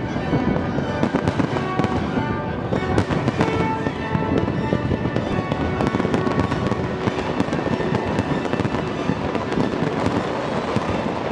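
A fireworks display: rapid, continuous bangs and crackling from many shells bursting, with music playing underneath.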